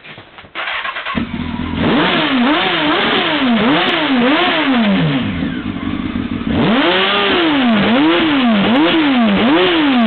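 Honda CBR954RR sport bike's inline-four engine starting about a second in, then revved again and again in quick blips that rise and fall in pitch, with a brief stretch of idle in the middle, running inside a narrow hallway.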